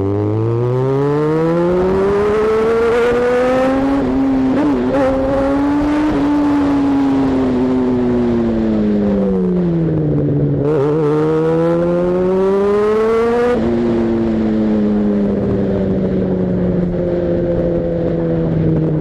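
Yamaha XJ6 motorcycle's inline-four engine under way, its pitch climbing as it accelerates, falling back about ten seconds in and climbing again. It drops sharply at a gear change about fourteen seconds in and then eases off.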